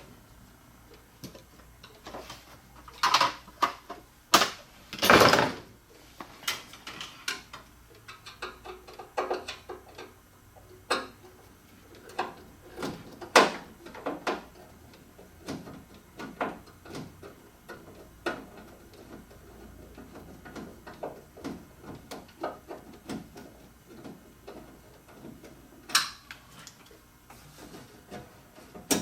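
Scattered clinks, clicks and knocks of hand tools and metal parts being handled during disassembly of a lathe's collet closer, with a louder clatter about five seconds in.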